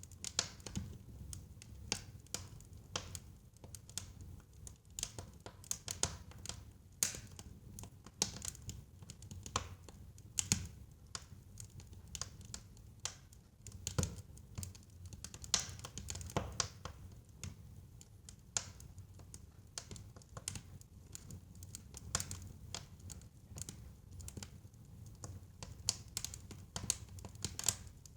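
Wood fire burning in a fireplace: irregular sharp crackles and pops from the burning wood over a low steady rumble of the flames.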